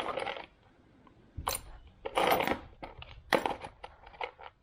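Small metal drill bits clinking and rattling as they are picked out and sorted by hand, in several short bursts with quiet gaps between.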